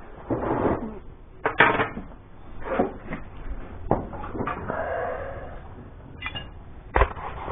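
Irregular metal clanks and knocks from hand tools and parts during work on a tractor, with scraping between the hits and a brief squeak about five seconds in.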